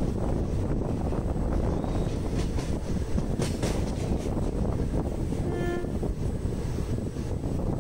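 Train running along the track, heard from aboard: a steady low rumble of wheels on rail, a few sharp clacks about halfway through, and a short horn note a little later.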